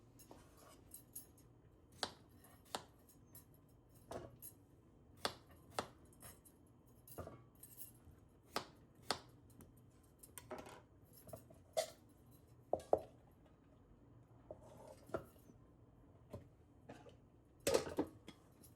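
Kitchen work: irregular knocks and clinks of dishes and utensils being handled, some ringing briefly, with a louder cluster near the end.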